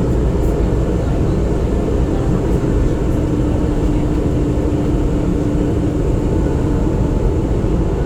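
Steady rumble of a Manila MRT-3 train running between stations, heard inside the carriage, with a steady low hum that stops about six seconds in.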